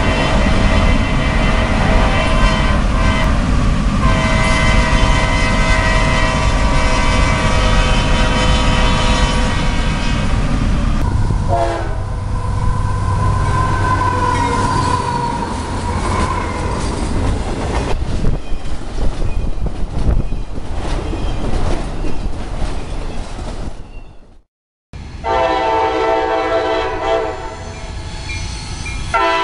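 CSX diesel freight locomotives passing close, with heavy engine and wheel rumble and a multi-note air horn sounding for about ten seconds. After a brief cut to silence near the end, another locomotive horn blows loud and steady.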